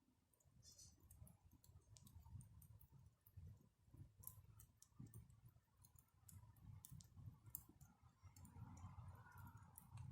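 Faint crackling of a wood campfire: irregular small snaps and pops scattered through, over a low rumble.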